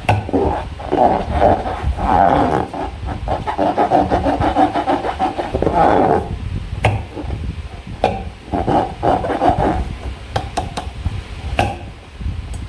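Hands squeezing and rubbing slime and rubber balloons: irregular squishing and rubbing noises, with a few sharp clicks.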